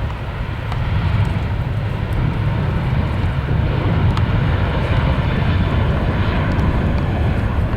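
Jet airliner's engines at takeoff power: a loud, deep, steady rumble that grows louder about a second in.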